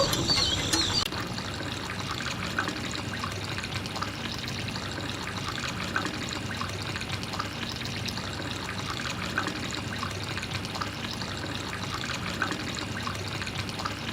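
Water trickling and splashing steadily, with small scattered drips. High insect chirping carries over into the first second, then stops.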